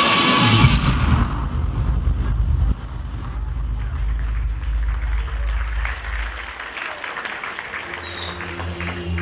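A live band's music stops about a second in, leaving a low rumble that fades out after a few seconds. A scattering of faint claps and murmuring voices from the audience follows.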